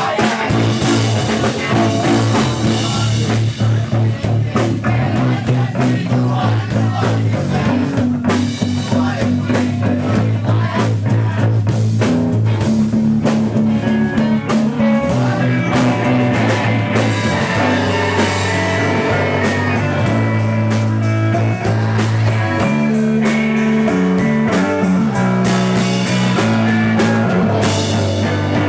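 Live rock band playing loudly: distorted guitar, heavy bass and drums, with some singing.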